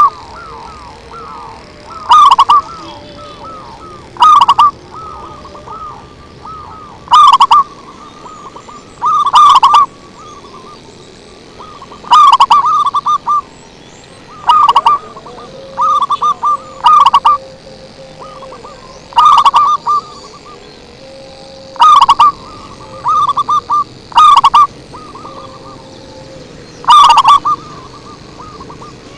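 Zebra dove (perkutut) cooing: a loud phrase of quick, bubbling notes repeated about every two to two and a half seconds, with softer coos running between the phrases. The loud phrases peak at full scale and sound overdriven.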